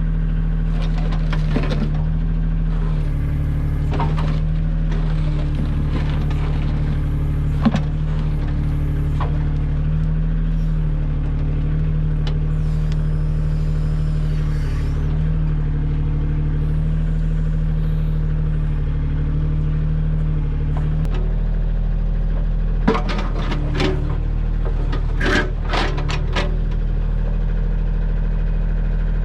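Kioti compact tractor's diesel engine running steadily while its backhoe digs, the engine note shifting a couple of times under changing load. Scattered metallic clanks and scrapes from the bucket, bunched together near the end.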